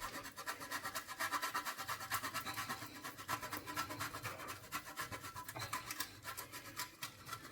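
Parmigiano Reggiano being grated by hand: a steady run of quick rasping strokes, several a second.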